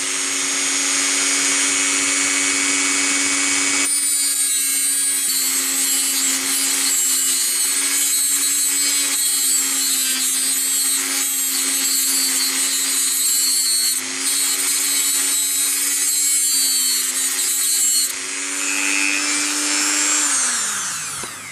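Dremel rotary tool running at high speed, cutting protruding bolt ends flush, with a harsh hiss over the motor's steady whine. Near the end the motor is switched off and winds down with a falling pitch.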